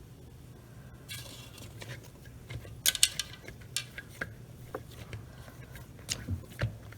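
Light clatter of dishes and utensils: scattered clinks and knocks, the loudest a quick cluster about three seconds in, with a brief rustle before it.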